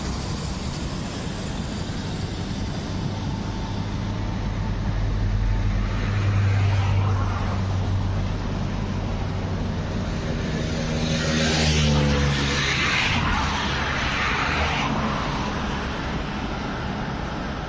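Road traffic going by, with one vehicle passing close about eleven seconds in, its engine note falling in pitch as it goes.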